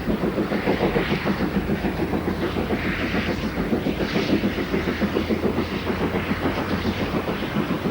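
Great Western 4-4-0 steam locomotive City of Truro running at speed with its train: a rapid, even beat with the clatter of wheels over the rails.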